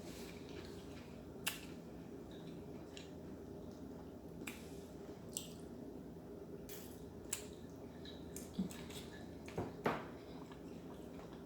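Eating sounds from a seafood meal: scattered sharp clicks and small cracks, loudest twice near the end, over a steady low hum of room tone.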